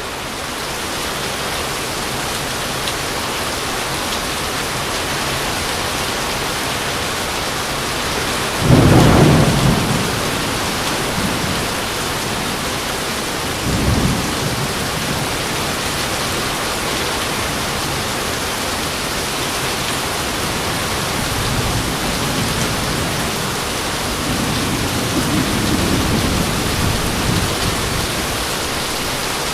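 Thunderstorm: steady rain with a loud crack of thunder about nine seconds in, a shorter clap a few seconds later, and a longer low rumble of thunder near the end.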